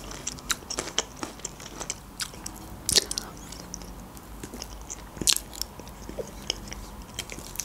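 Close-up chewing of a cherry tomato with the mouth closed: wet clicks and smacks at an uneven pace, a few of them louder, near the start, about three seconds in and about five seconds in.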